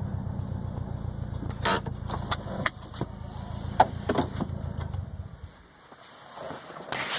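2020 Subaru WRX STI's turbocharged flat-four running steadily through an ETS quiet catback exhaust with resonated mid pipe, a low rumble that dies away about five seconds in as the engine is shut off. Several sharp clicks and knocks sound over it.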